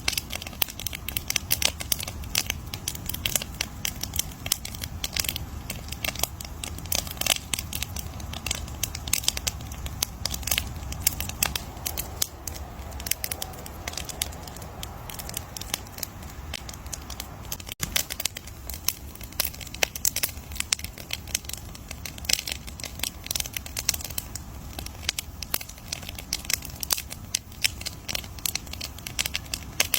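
Wood bonfire crackling, with dense, irregular snaps and pops over a steady low rumble of the flames.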